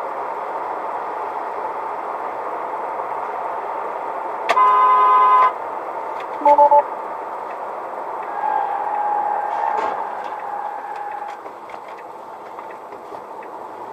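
Car horn blaring for about a second over steady road traffic noise, then two short horn beeps a second or so later. A fainter held tone follows.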